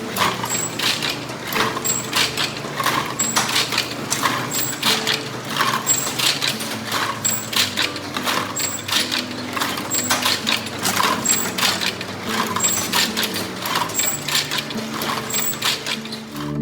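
Machinery running with steady clicking and clacking and a short high beep about once a second.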